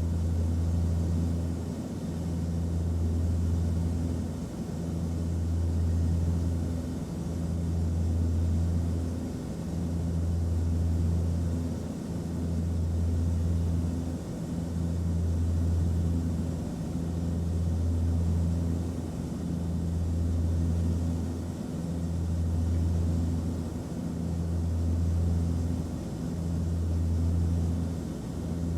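Airliner cabin noise in flight: a steady low engine and airflow drone that swells and eases about every two and a half seconds.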